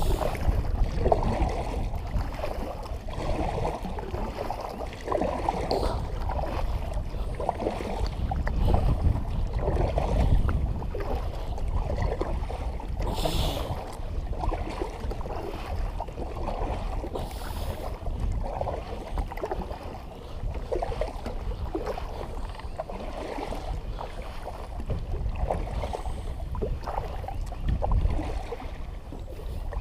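Wind buffeting the microphone in a low rumble, with water lapping and slapping irregularly against a kayak's hull on a choppy, windblown lake.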